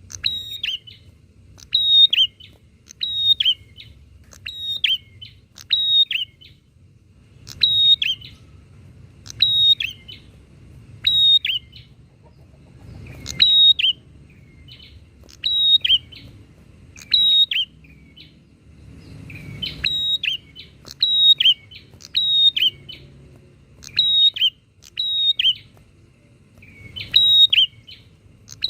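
Prinias (prenjak) calling back and forth in full voice: short, sharp chirping calls repeated about once a second, with a few brief pauses. A faint low rumble sits underneath.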